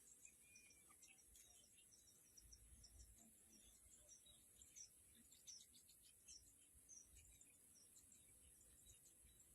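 Faint, scattered bird chirps: many short, high calls in quick succession, over a steady high hiss.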